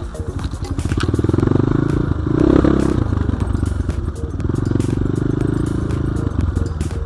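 Off-road motorcycle engine running under load, its level rising and falling with the throttle, louder about a second and two and a half seconds in, with scattered clattering knocks.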